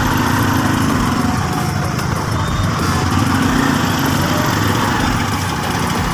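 Motorcycle engine running steadily at low speed in slow traffic.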